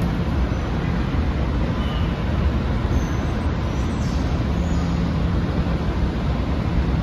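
Passenger train running past with a steady rumble.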